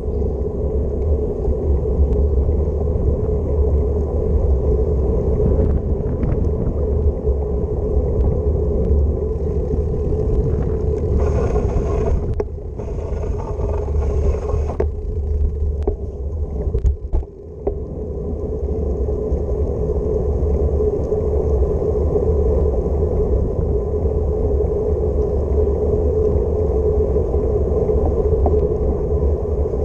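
Steady low rumble of wind on the microphone with road noise while riding a bicycle through city streets, with a few seconds of brighter hiss near the middle.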